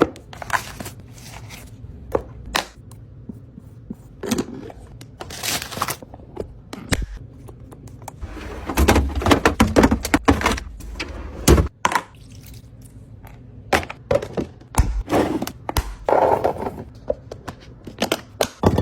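Items being set down and arranged in a refrigerator: a string of irregular knocks, thunks and clicks of containers and bottles, with short stretches of rustling packaging.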